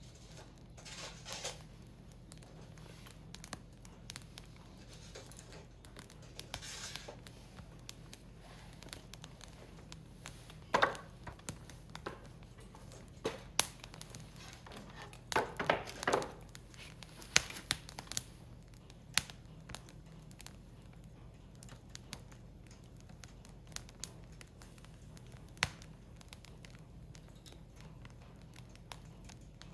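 Burning firewood crackling, with scattered sharp pops and a denser run of louder cracks about halfway through.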